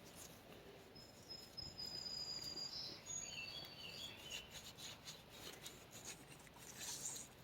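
Faint rubbing and light clicks of a front-axle wheel bearing on a Ford 1910 tractor being handled and turned by hand to check it. Thin high whistling tones sound from about a second in for two to three seconds.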